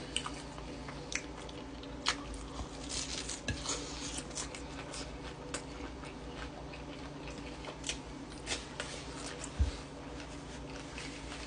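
A person chewing a crispy hash-brown breakfast sandwich close to the microphone: scattered crunches, lip smacks and wet mouth clicks, with a low steady hum underneath.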